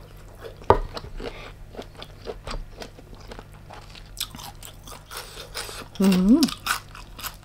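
Close-miked chewing and crunching of giant tiger prawn, with one sharp crack less than a second in. A brief voiced sound from the eater comes about six seconds in.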